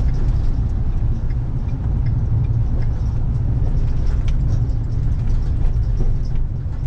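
Cab noise of a 2014 Ford F550 with the 6.7 L Power Stroke turbo diesel V8 while driving: a steady low engine and road rumble, with a few faint rattles and ticks.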